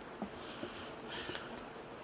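Two soft breaths close to the microphone, with a few small clicks of handling.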